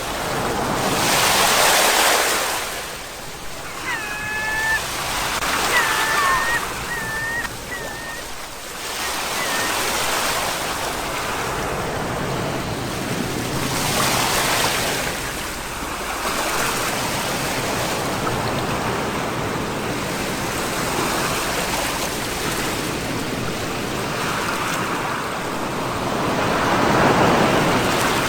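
Sea waves breaking and washing up on the shore, swelling and falling in repeated surges every few seconds.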